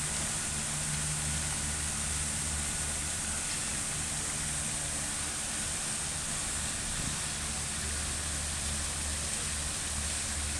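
Fountain water splashing as a steady hiss, with a low steady hum underneath.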